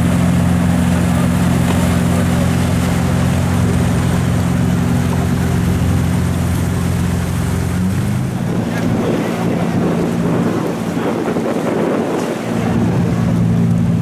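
An engine running steadily at a low, even pitch. It drops away for about four seconds past the middle, where a rushing noise like water or wind takes over, then comes back near the end.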